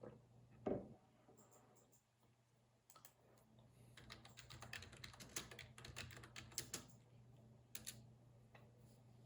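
Typing on a computer keyboard: a quick run of key clicks lasting a few seconds, then one more click. Near the start there is a single dull thump, louder than the typing, and a low steady hum runs throughout.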